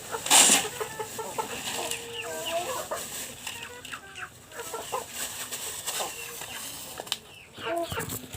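Native chickens clucking and calling in short, repeated notes while being fed, with one brief loud rustle about half a second in.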